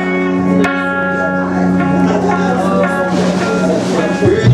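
Guitar music: sustained electric guitar notes with plucked attacks, starting abruptly.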